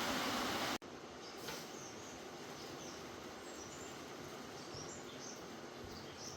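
Outdoor ambience: a steady hiss with small birds chirping now and then. A louder steady noise cuts off abruptly under a second in.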